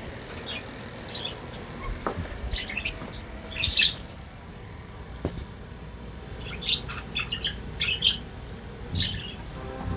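Budgerigars chirping in short, scattered bursts, the loudest about four seconds in and a quick run of chirps near the end.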